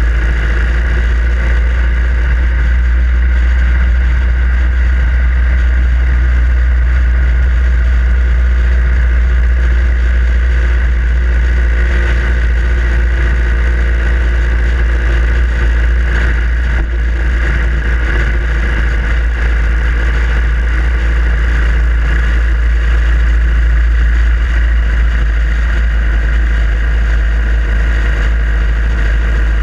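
Harley-Davidson Iron 883's air-cooled V-twin engine running steadily while riding. A loud, deep rumble of wind on the microphone sits under it.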